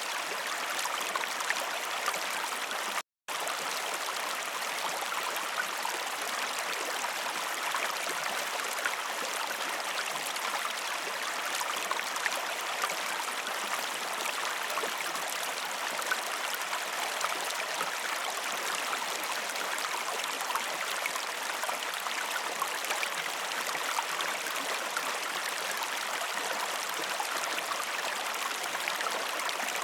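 Waterfall rushing in a steady, even wash of falling water, with a split-second gap where the sound cuts out completely about three seconds in.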